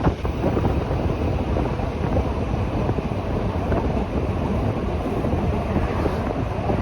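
Rhaetian Railway regional train running along the track: a steady rumble with wind noise on the microphone.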